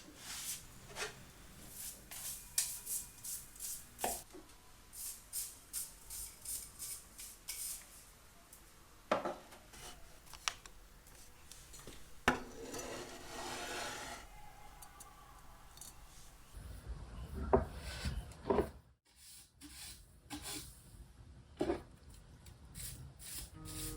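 Objects being handled by hand: a run of short rubbing or brushing strokes, then a few sharp clicks, a brief rustle and some light knocks.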